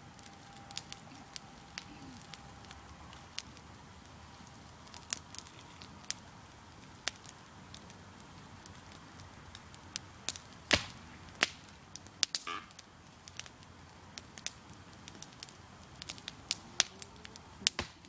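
Wood campfire crackling, with sharp irregular pops from the burning logs, the loudest about eleven seconds in. A faint thin whistle is heard during the first few seconds.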